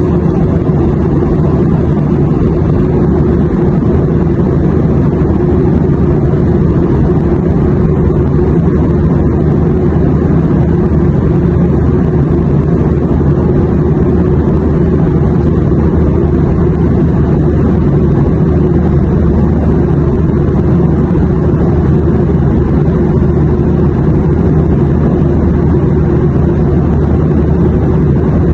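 Airplane noise: a steady, deep, even drone that does not change at all.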